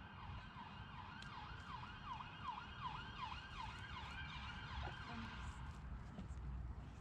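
Distant emergency-vehicle siren in a fast rising-and-falling yelp, about two to three sweeps a second, fading out near the end, over a low rumble of wind or traffic.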